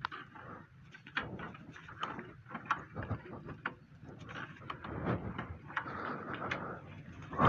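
Irregular clicks, knocks and rattles of small mechanical parts being handled, over a faint rustle.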